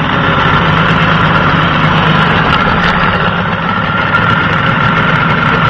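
1986 Tohatsu M18C2 18 hp two-stroke outboard motor running steadily in reverse gear.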